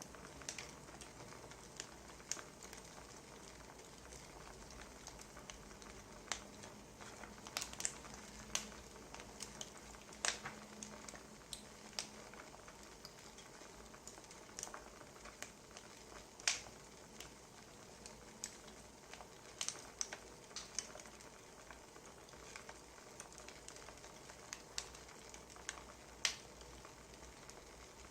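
Quiet wood fire crackling: irregular sharp snaps and pops, a few louder than the rest, over a soft steady hiss.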